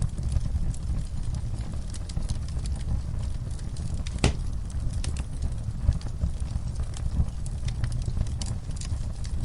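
Wood fire in a fireplace crackling, with irregular small pops over a steady low rumble of the flames; one sharper pop about four seconds in.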